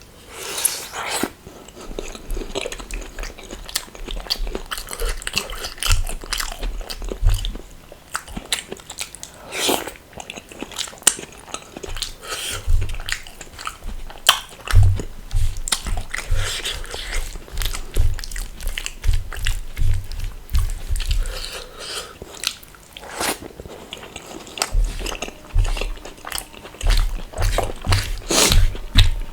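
Close-miked eating: mouth sounds of chewing and biting, with repeated short crunches scattered irregularly throughout.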